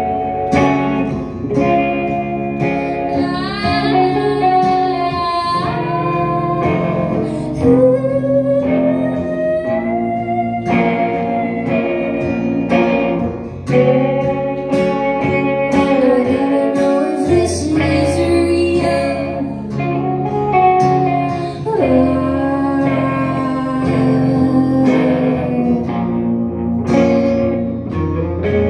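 Live band music with guitar prominent, the melody gliding up and down in pitch; no words are made out.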